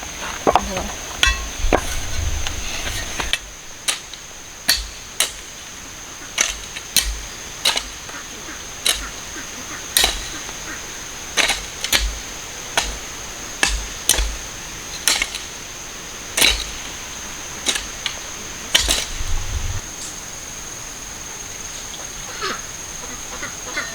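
A hand tool chopping with repeated hard strokes, about one a second, stopping about twenty seconds in. A steady high-pitched whine runs underneath.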